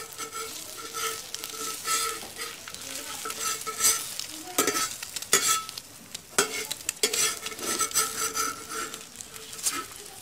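Egg-topped bread slice frying in desi ghee on a tawa griddle, sizzling steadily, with a metal slotted spatula clicking and scraping against the pan many times as it presses the slice and lifts it near the end.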